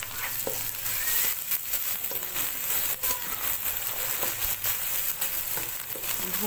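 Onion, tomato and ginger-garlic masala sizzling in hot oil in a nonstick kadhai, with a steady hiss and scattered crackles as it is stirred with a spatula.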